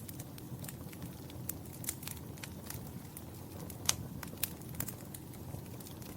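Wood fire crackling in a fireplace: a low steady rumble of flames under frequent sharp pops, the loudest pop about four seconds in.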